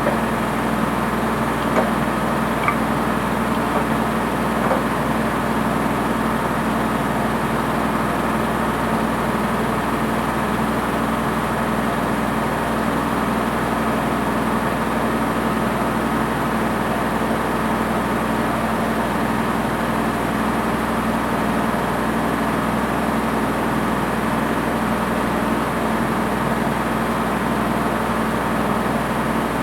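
Washing machine running with a steady motor hum at one unchanging pitch, with a few light ticks in the first few seconds.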